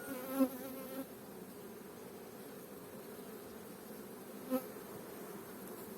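Honeybees from an open hive humming steadily, a strong colony at work on the frames. Two brief louder buzzes stand out, about half a second in and again near four and a half seconds.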